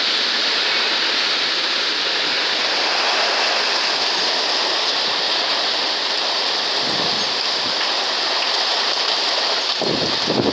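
Hurricane rain and wind: a loud, steady rushing that starts suddenly, with rain pelting the phone. A deeper rumble joins near the end.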